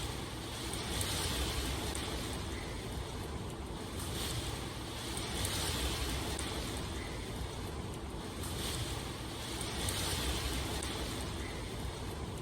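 Continuous rushing water ambience that swells and eases roughly every four to five seconds.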